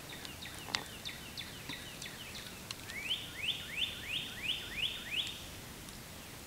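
A songbird singing: a run of short chirps, then a string of seven rising whistled notes, about three a second.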